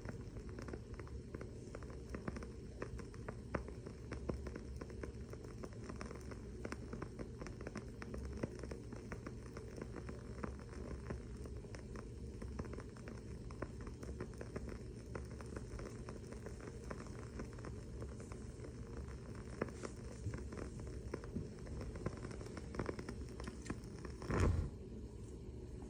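Wooden-wick candle crackling: a continuous stream of small, irregular pops and ticks over a faint steady hum. A brief, louder falling whoosh-like sound stands out near the end.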